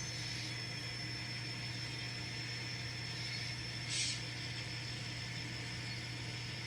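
Faint steady whir and low hum of an N scale model locomotive creeping slowly in reverse, with a brief hiss about four seconds in.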